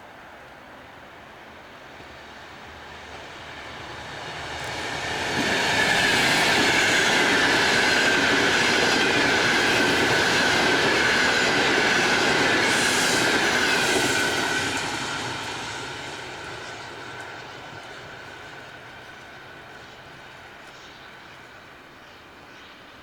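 A train passing by: it grows louder over a few seconds, runs loud for about eight seconds with a high steady tone that falls slightly in pitch, then fades away.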